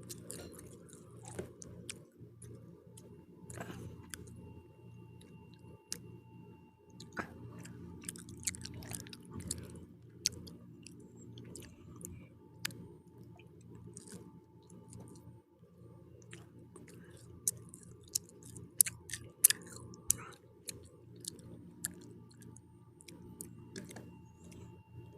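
Pizza being chewed close to the microphone: wet chewing with irregular crisp crunches and mouth clicks, the sharpest cluster of crunches about two thirds of the way through. A steady low hum runs underneath.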